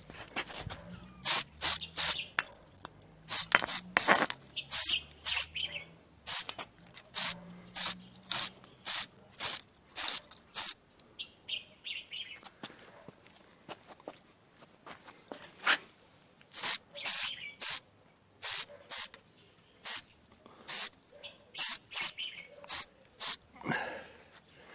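Aerosol spray can of undercoat paint sprayed in many short hissing bursts, one after another with brief gaps, as primer is touched on here and there.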